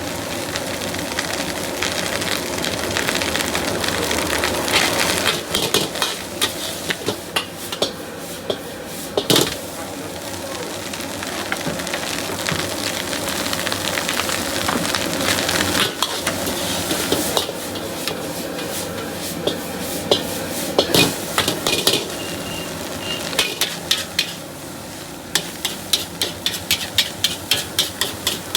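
Chicken fried rice sizzling in a wok, with a metal utensil scraping and clanking against the pan as the rice is tossed. Quick runs of clanks come near the end.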